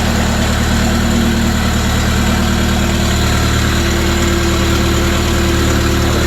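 A Slingshot's brand-new engine idling steadily on its first start, loud because the muffler is not hooked up.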